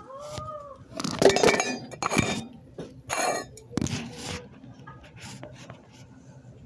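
Several sharp clattering, clinking knocks of hard objects, like dishes or other household items being knocked or set down. The loudest comes a bit over a second in, with more at about two, three and four seconds.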